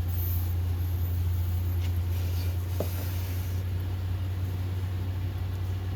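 A steady low hum with nothing else prominent, and one faint short sound just before the middle.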